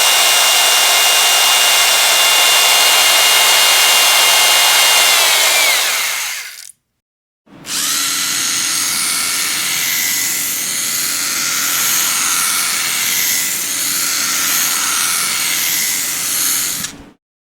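Electric power drill running at steady speed, with a high whine. It winds down in pitch and stops about six seconds in, then after a short silence runs again for about ten seconds, wavering slightly, and stops near the end.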